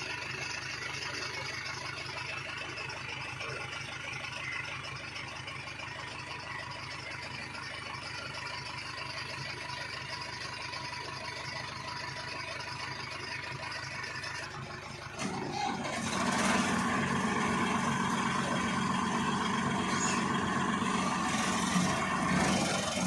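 Tractor diesel engine running at idle, getting louder about fifteen seconds in and staying louder.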